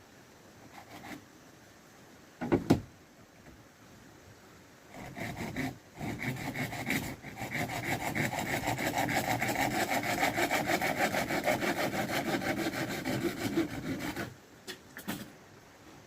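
Hand saw cutting with quick, even back-and-forth strokes for about nine seconds, pausing briefly near the start. A sharp knock comes about two and a half seconds in and is the loudest sound.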